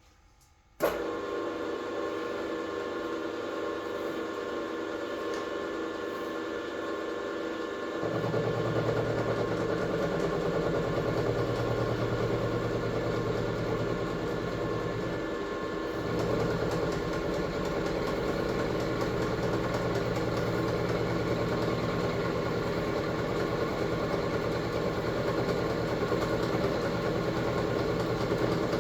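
A workshop machine's electric motor switches on about a second in and runs steadily, a whir made of several fixed tones. A lower hum joins about eight seconds in and the sound gets louder.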